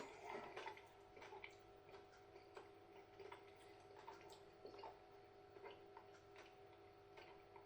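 Near silence: faint, irregular soft mouth clicks from chewing chocolate, over a steady low room hum.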